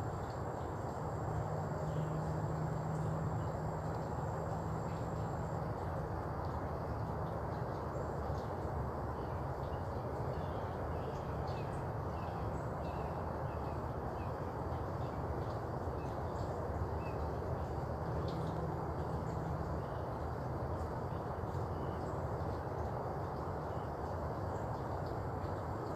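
Steady background noise with a low hum, with faint, scattered bird chirps.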